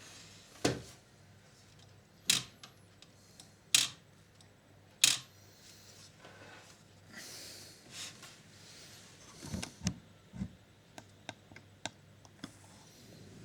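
Clicks and knocks from hands working on a Panasonic NV-G7 VCR's tape mechanism. There are four sharp clicks in the first five seconds, a brief rustle, then a run of lighter knocks and ticks near the end.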